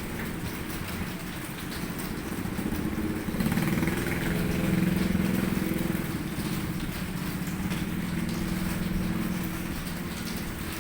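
A motor vehicle's engine passes over steady rain, growing louder about three and a half seconds in and fading toward the end.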